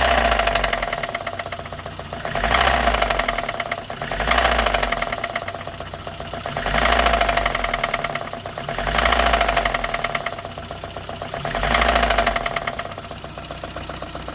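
Lada VAZ-2114 inline-four petrol engine idling, blipped by the throttle six times, each rev about a second long and two to three seconds apart, with a knock in the engine that comes up with the revs.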